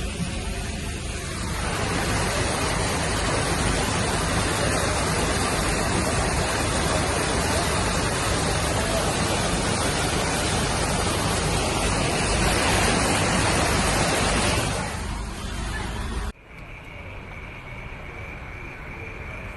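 Fast-flowing floodwater rushing, a loud steady rush of noise. About 16 s in it cuts off suddenly, leaving a quieter background with a faint steady high tone.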